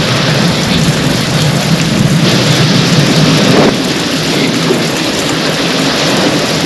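Heavy rain pouring steadily, with a low thunder rumble underneath. About two seconds in the rain swells louder for a second and a half, then drops back suddenly.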